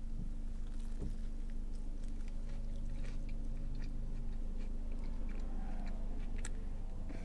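A bite into a crispy fried chicken sandwich, then chewing with small crunches of the breading, over a steady low hum.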